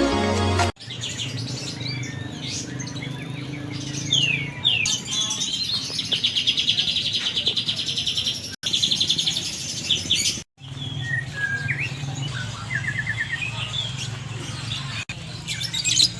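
Caged contest songbirds singing: several birds overlap in quick chirps and whistled phrases, with a long, fast trill in the middle, over a steady low hum. A moment of music cuts off under a second in.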